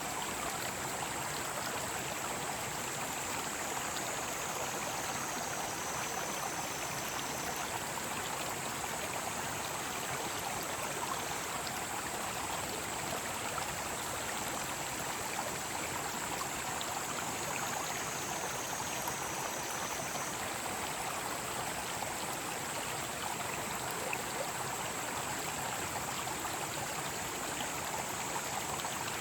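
Mountain stream flowing steadily, with cicadas singing in a steady high band over it. Twice the cicada song slides down in pitch and trails off, once about a quarter of the way in and again past the middle.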